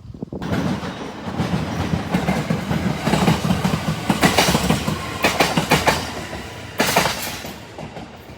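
Train passing close by: a sudden rush of noise with wheels clattering over rail joints, loudest in the middle, then fading away near the end.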